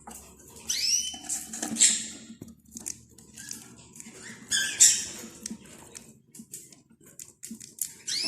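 Budgerigars chirping in short, high, bending calls, the loudest about one, two and five seconds in, with scattered small clicks in between.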